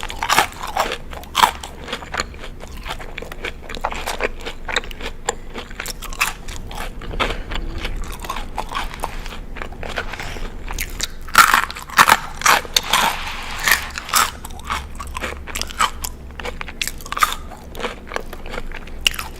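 A person biting and chewing crunchy food close to the microphone: a steady run of crisp crunches, with a denser, louder burst of crunching about two-thirds of the way through.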